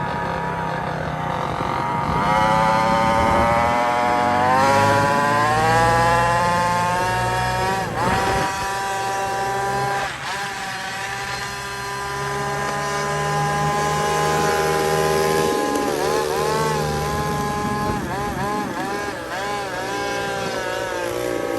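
Small gasoline engine of a ridden motor bike revving up over several seconds, dropping back sharply about eight seconds in, then running steadily, with a few quick rev blips near the end.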